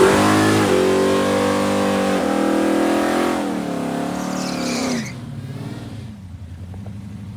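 Drag-racing car's engine at full throttle accelerating down the strip, its pitch climbing and dropping back at each gear change, then falling away after about five seconds to a lower steady rumble.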